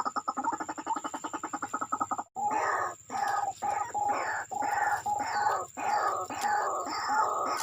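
White-breasted waterhen calls: a fast rattling series for about two seconds, then, after an abrupt break, a run of repeated croaking notes about twice a second.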